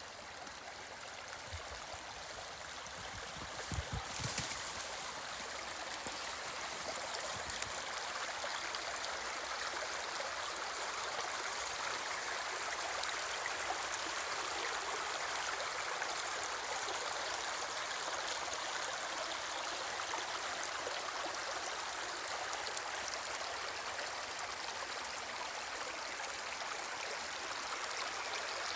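Small forest stream flowing, a steady rushing trickle of water that grows a little louder over the first several seconds and then holds. A few brief low thumps come in the first eight seconds.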